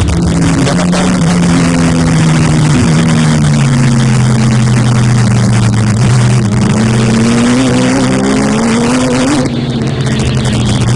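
Racing motorcycle engines running hard at high revs. The engine pitch sinks slowly for several seconds, then climbs again near the end.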